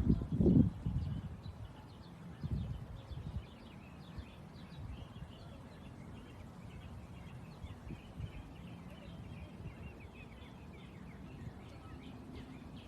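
Birds calling outdoors: a loud, low honk-like call in the first second, then many faint, short, high chirps over a quiet background.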